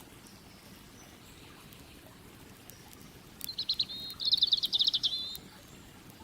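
A songbird sings one short trilled phrase of rapid repeated notes about halfway through, over a steady low rush of background water and a few faint crackles from the campfire.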